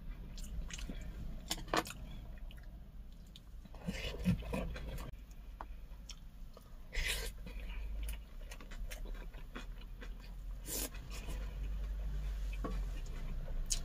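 A person eating: chewing with scattered mouth clicks and brief crunchy bursts, over a steady low hum.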